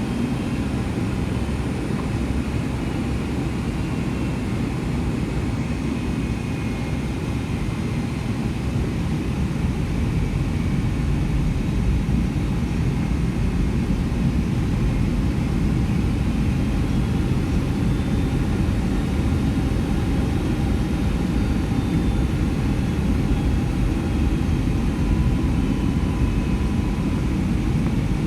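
Cabin noise of a Boeing 757-200 airliner on approach: a steady rush of airflow and engine noise heard from inside the cabin, with faint steady whines above it, growing slightly louder about ten seconds in.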